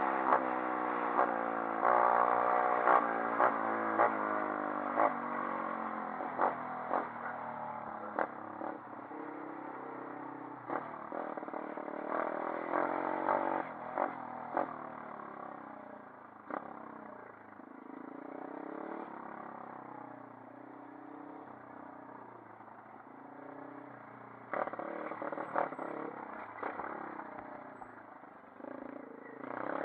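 A 140cc pit bike's single-cylinder four-stroke engine revving up and down as the bike is ridden. The engine fades as the bike moves away through the middle and grows loud again right at the end, with sharp clicks and knocks along the way.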